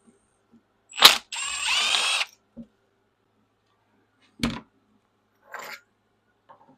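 A sharp click, then a power tool runs for about a second. A single knock and a short scrape follow.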